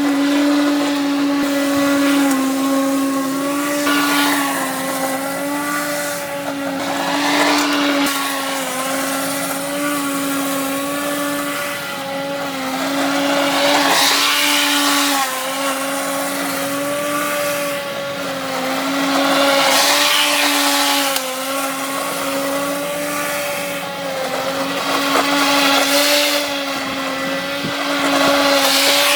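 Lawn mower running at a steady speed, its hum wavering slightly in pitch, with swells of louder rushing noise every several seconds.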